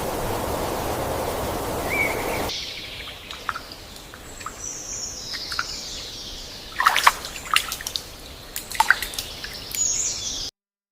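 Steady hiss of noise, then birds chirping, with high falling calls and quick sharp chirps in two clusters. The sound cuts off abruptly near the end.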